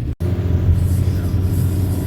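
Steady low engine and road rumble of a moving bus. The sound drops out for an instant near the start, then resumes.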